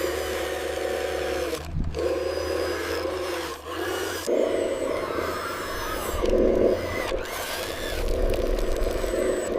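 Small electric motors and gearing of radio-controlled construction machines whining steadily, with scraping of dirt or gravel under them. The whine changes suddenly a few times.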